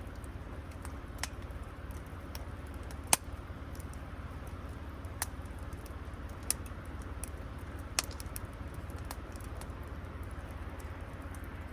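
Wood campfire crackling: sharp, irregular pops and snaps, the loudest about three seconds in, over a steady low rumble.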